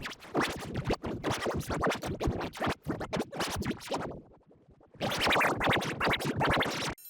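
Rapidly chopped, stuttering effects-processed audio that sounds like record scratching. It breaks off for about a second around four seconds in, then resumes.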